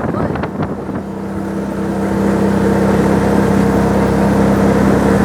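An engine running with a steady hum, which starts about a second in and grows louder over the next two seconds, then holds.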